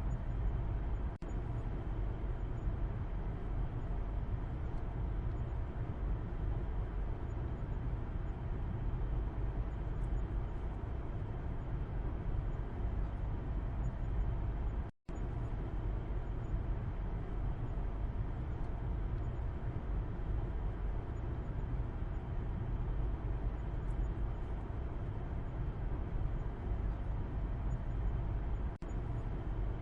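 Steady low road and engine rumble of a car in motion, heard from inside the cabin in the back seat. The sound drops out for a split second about halfway through.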